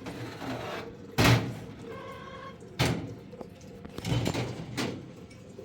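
A few dull thumps or knocks, four in all, the loudest about a second in, with a faint voice in the background.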